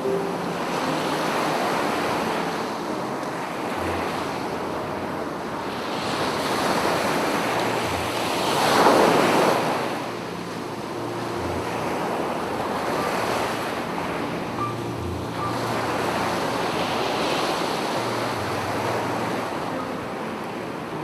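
Sea waves breaking and washing up a beach, surging and ebbing every few seconds, with the loudest wash about nine seconds in.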